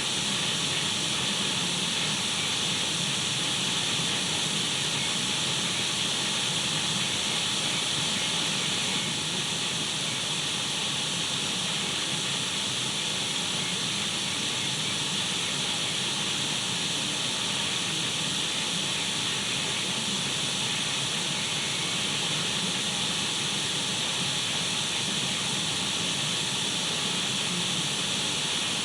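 Radio static: a steady, even hiss with no breaks or changes, brightest in the upper range.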